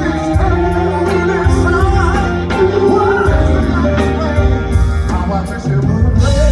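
Live soul vocal group and band playing a slow ballad: voices singing over a steady bass line with drum hits.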